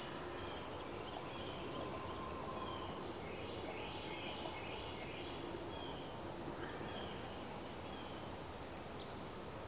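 Outdoor background noise with birds calling: a quick run of four or five short, high chirps about three and a half seconds in, and a few scattered single calls.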